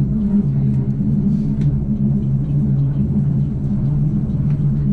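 Rhaetian Railway Bernina Express electric train running, heard from inside the carriage: a steady low rumble and hum, with faint scattered clicks.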